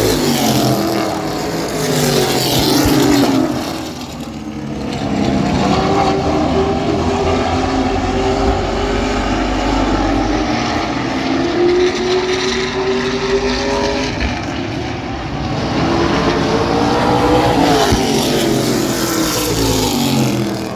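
Several race trucks' engines running at racing speed around a short oval track, their pitch rising and falling as they pass and rev between corners.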